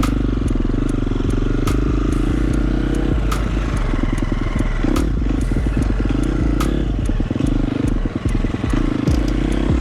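KTM dirt bike engine running on a trail ride, its pitch rising and falling as the throttle is worked, with frequent short clicks and knocks over it.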